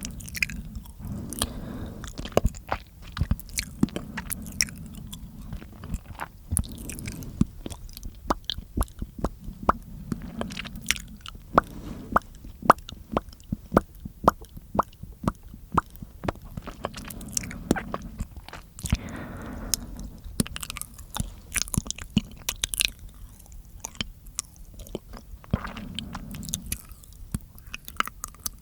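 Close-miked ASMR mouth sounds: a dense, irregular run of wet clicks and smacks from the tongue and lips, with soft low swells every several seconds.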